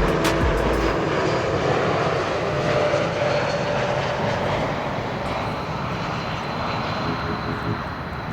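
Airbus A220's twin turbofan jet engines running as the airliner lands, a steady roar with a faint whine that slowly fades away.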